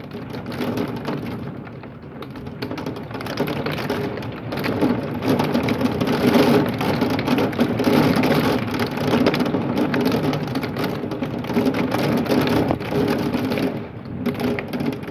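Marble-sized hail and heavy rain pelting a window and house: a dense, continuous rattle of small impacts that builds about four seconds in and eases slightly near the end.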